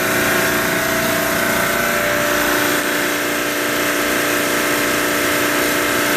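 Carrier reciprocating compressor running steadily after a pump-down, an even mechanical drone with a constant hum and no change in pitch.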